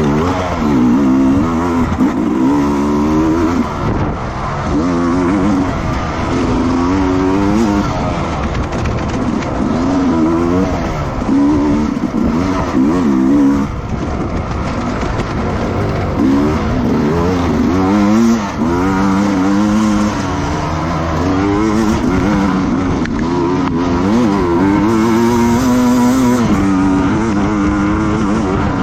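Racing motorcycle engines revving hard, their pitch climbing and dropping again and again.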